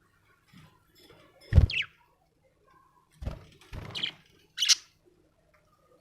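Budgerigar giving a few short chirps: a falling chirp about one and a half seconds in and a high, sharp one near the end. Several dull thumps come in between, the loudest together with the first chirp.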